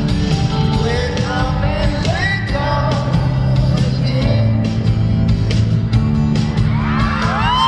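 Live pop/R&B band music with a male lead vocal over steady bass and drums. Near the end a long sung note rises and falls.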